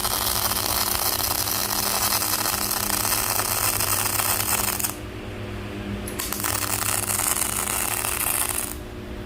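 Metalworking tool working on steel in two long stretches of harsh hiss over a steady low hum. The first stops about five seconds in; the second starts a second later and stops near the end.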